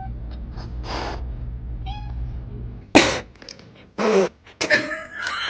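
A cat making short calls: a brief high meow about two seconds in and a falling call about four seconds in, with sharp, hissy bursts near the first second and near the third; the one at three seconds is the loudest.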